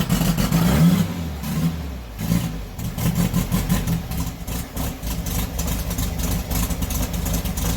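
Freshly swapped air-cooled VW flat-four engine in a 1971 Super Beetle, running just after its first start. It is revved up and down a few times in the first three seconds, then settles to steadier running.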